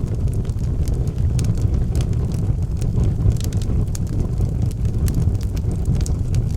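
Wood fire burning in a fireplace: burning logs with a steady low rumble of flames and frequent small, sharp crackles and pops.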